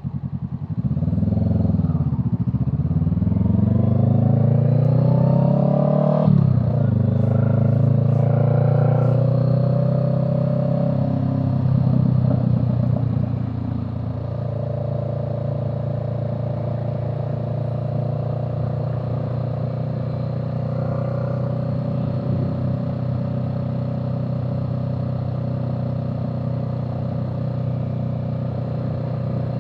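Vehicle engine accelerating hard from low revs, its pitch rising through the gears with a sharp upshift about six seconds in, then settling into a steady cruise from about halfway through.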